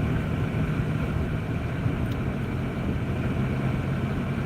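Steady engine and road noise inside the cabin of a Jeep Grand Cherokee, heard as a constant low hum under a wash of noise.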